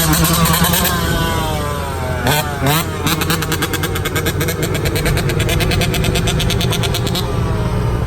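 Dirt bike engine revving, its pitch falling and rising, then running with a rapid, even pulse.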